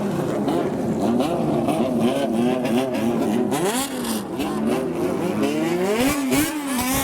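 Engines of old kaido-racer cars revving with repeated throttle blips, the pitch swinging up and down over and over. More than one engine is heard at once, with a sharp climb in revs a little past halfway.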